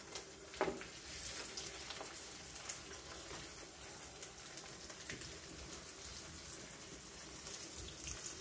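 Patties sizzling in hot oil in a frying pan over a medium-high flame: a steady fizzing hiss with light crackles while more patties are laid in. A single sharp knock about half a second in.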